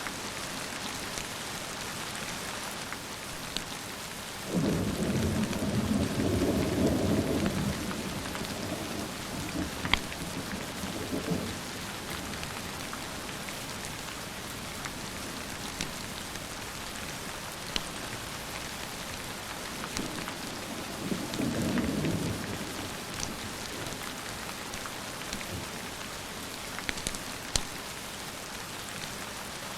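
Steady rain with two rolls of thunder: a loud one that starts suddenly about four seconds in and rumbles for several seconds, and a shorter one about twenty-one seconds in. A few sharp clicks stand out above the rain.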